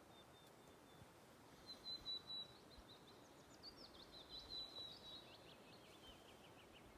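Faint songbird singing: a few high thin notes about two seconds in, then a long run of quick chirping notes that slips lower in pitch toward the end, over a soft outdoor hiss.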